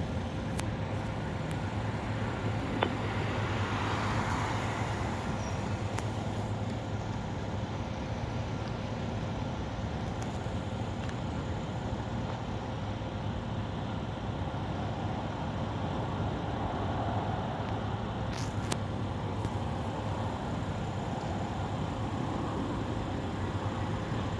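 Steady background noise of vehicle and engine traffic with a constant low hum, and a few faint clicks.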